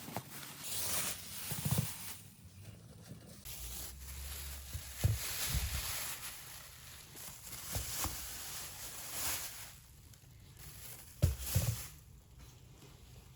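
Groceries being handled and unpacked: irregular rustling of bags and packaging, with a few soft knocks as items are set down, the loudest near the end.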